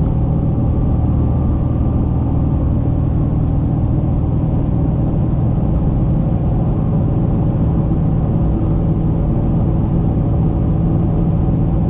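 Plow truck cruising at steady highway speed: an even drone of engine and road noise that holds level throughout.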